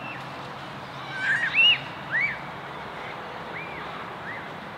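Birds calling: a quick run of short, arching calls about a second in, the loudest near the middle, then two fainter calls near the end, over a steady hiss.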